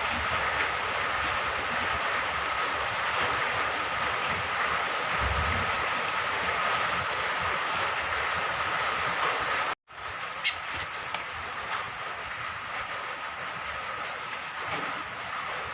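Steady rain falling, with a faint even tone running through it, that breaks off for an instant about ten seconds in. Just after the break a cucak kombok (kecial kombok), a small honeyeater, gives a short sharp call, followed by a couple of fainter ones.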